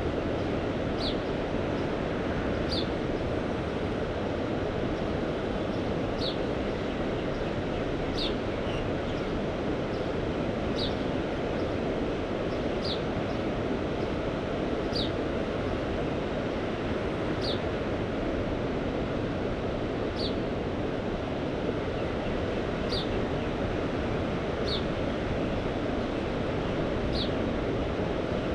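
Steady rushing noise of sea surf and wind, even in level. Over it a bird gives a short, high, downward-sliding chirp every two seconds or so.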